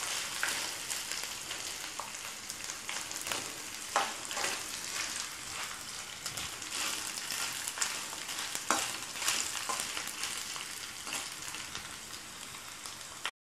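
Diced coconut, dried red chillies, garlic, curry leaves and urad dal sizzling steadily in a little oil in a nonstick kadai as they roast. A slotted spatula stirs through them at the start, and a few sharp clicks come through the sizzle.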